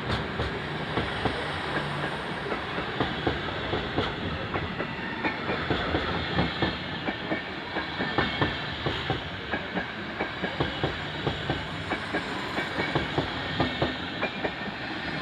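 A train passing on the rails, its wheels clicking over rail joints and points in a quick, uneven run of clicks over a steady rumble.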